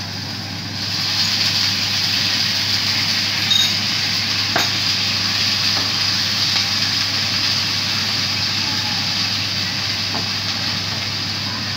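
Sliced bitter gourd sizzling in a hot wok as a sauce is poured in, the sizzle rising about a second in and then holding steady. A wooden spatula stirs through it, with a few clicks against the pan.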